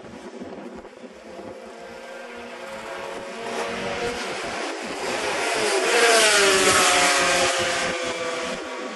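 Racing motorcycle engine at high revs, approaching and passing by. It grows louder to a peak about six seconds in, where the pitch drops as it goes past, then fades.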